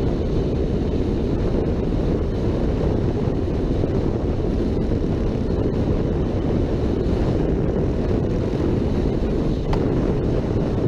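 Steady wind buffeting on the microphone of a motorcycle's onboard camera while riding, a continuous low rumble with no breaks.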